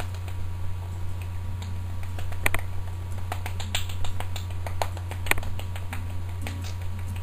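Irregular sharp clicks and taps, the loudest about two and a half and five seconds in, over a steady low electrical hum.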